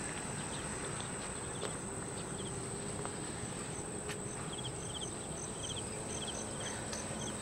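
Insects chirping: short high chirps repeated in quick groups over a steady high buzz and outdoor background noise.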